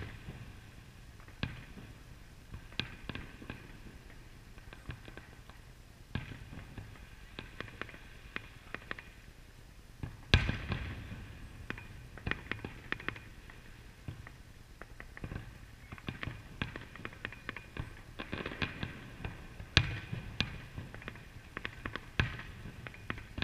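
Fireworks display: aerial shells bursting in a string of pops and crackles, with the loudest boom about ten seconds in and another strong one near twenty seconds.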